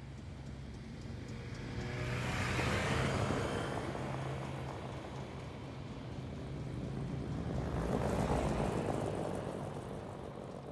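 Two vehicles passing one after the other on a road, each swelling up and fading away over a few seconds, with a steady low hum underneath.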